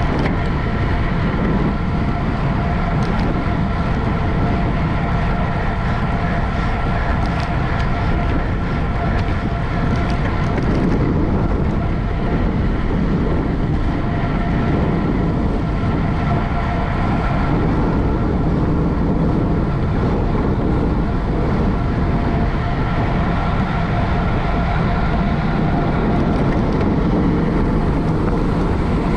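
Steady wind rush on the microphone of a camera riding on a racing bicycle at speed, with a constant hum of a few steady tones underneath.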